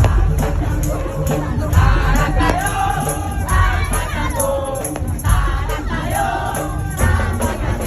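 Madurese daol (dug-dug) parade music, played loud: heavy pounding drums under a wavering melody line, with crowd noise mixed in.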